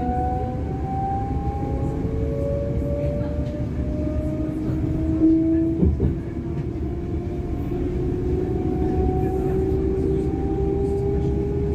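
DB Class 425 electric multiple unit accelerating: the whine of its traction motors rises slowly in pitch in several tones above a steady low rumble of running noise. There is a single knock about six seconds in.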